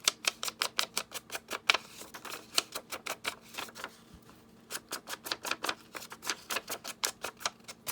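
A rapid run of sharp clicks, about five or six a second, with a brief pause a little past the middle.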